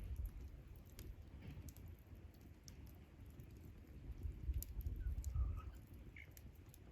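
Wood campfire crackling, with scattered sharp pops and ticks over a low rumble that swells about four seconds in.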